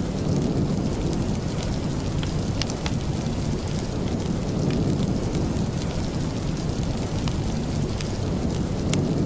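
Steady rain with a heavy low rumble underneath and scattered sharp ticks.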